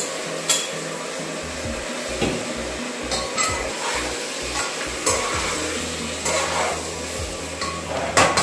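Chicken pieces frying in hot oil with browned onions, sizzling steadily while a spatula stirs them around the pot, scraping and knocking against it now and then.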